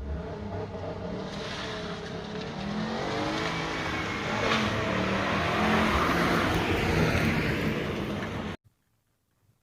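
Ford Fiesta Mk8 ST-Line engine and exhaust running under throttle, its pitch rising and falling and growing louder midway. The sound cuts off suddenly near the end.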